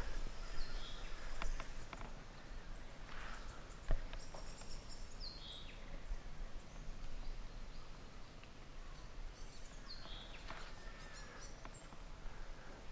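Birds calling in eucalypt rainforest canopy. One call repeats three times: a held high whistle ending in a sharp downward snap, among short high chirps, over a faint low rumble. A single sharp knock comes about four seconds in.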